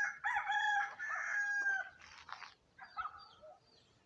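Rooster crowing once, a single call of about two seconds.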